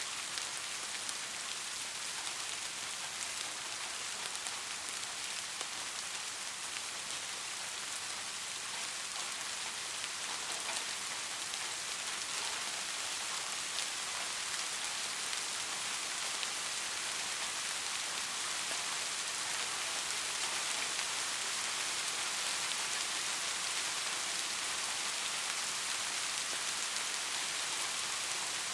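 Steady rain falling, an even hiss with many small drop ticks on a hard surface, growing a little louder toward the end.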